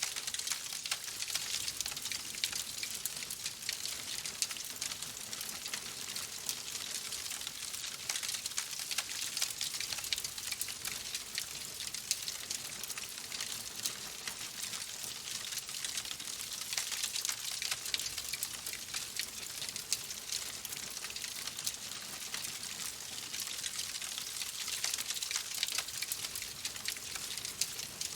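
Wood fire crackling steadily: a constant high hiss thick with many small, quick pops and snaps.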